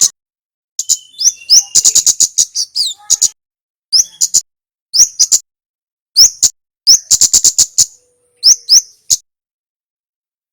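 Male kemade, a red sunbird, singing in quick bursts of sharp, high, clipped chirps and rattling trills, mixed with short slurred notes that slide in pitch, with brief pauses between bursts; it falls silent about a second before the end.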